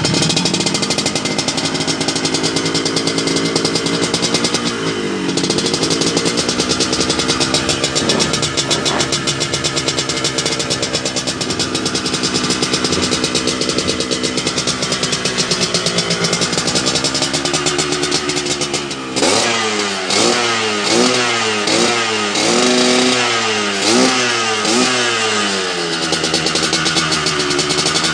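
Yamaha RX-King's two-stroke single-cylinder engine running steadily through a Thai-style racing exhaust. About two-thirds of the way in it is blipped repeatedly, the revs rising and falling about eight times, then it settles back to a steady run near the end.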